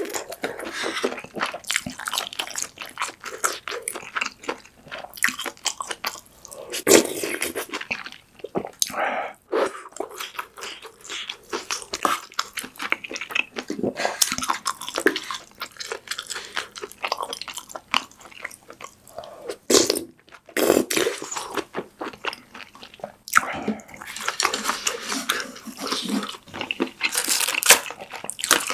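Close-miked eating sounds: wet chewing and crunching of pork kimchi stew with ramen noodles, with many sharp mouth clicks.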